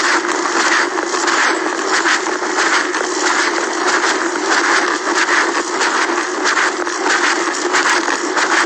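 Steady rushing and scraping noise of riding a bicycle on the road, with frequent crackles: wind and rolling noise on the rider's camera microphone.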